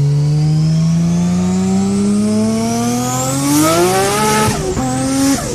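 Big-turbo Nissan Skyline's RB26 twin-turbo straight-six accelerating hard, its note climbing steadily for about four seconds, then dropping at a gear change and climbing again near the end.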